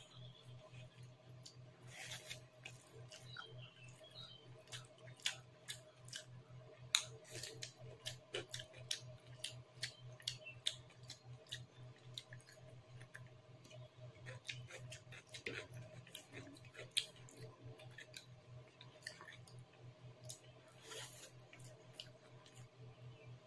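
Close-up eating sounds: chewing with wet mouth clicks and crisp crunches as raw cucumber, rice and chicken curry are eaten by hand, over a steady low hum.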